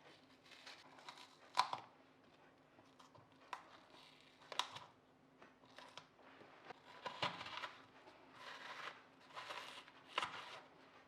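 Close handling sounds: irregular rustling and crinkling with a few sharp clicks, the loudest click about a second and a half in, over a faint steady hum.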